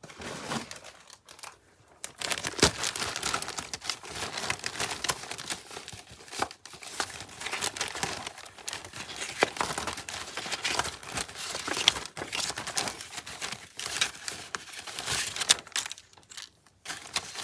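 Craft materials being rummaged through by hand: a dense run of crinkling and rustling that starts about two seconds in and pauses briefly near the end.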